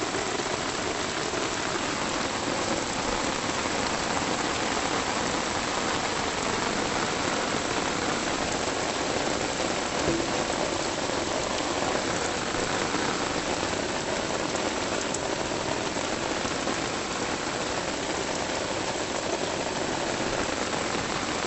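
Steady rain falling, an even, continuous hiss, with a single small knock about ten seconds in.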